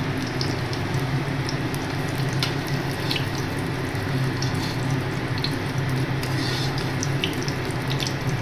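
Cabbage fritters frying in hot oil in a kadai: a steady sizzle with scattered small pops, and now and then a flat metal spatula scraping the pan as the fritters are turned.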